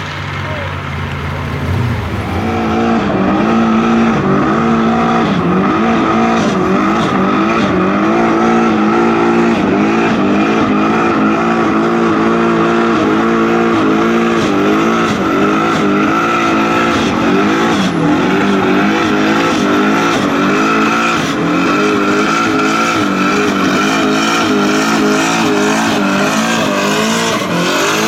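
Car engine held at high revs for a long burnout, its pitch wavering up and down, with steady tyre squeal over it.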